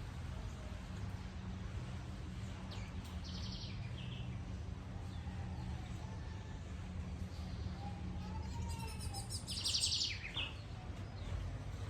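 Steady rain with a low steady rumble beneath it, and birds calling over it: short buzzy calls about three and four seconds in, and a louder, longer buzzy call about nine seconds in.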